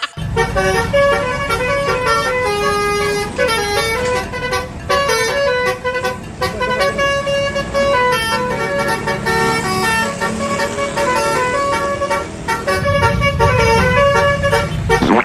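Bus telolet air horn playing a tune in quick stepped notes, over a low rumble.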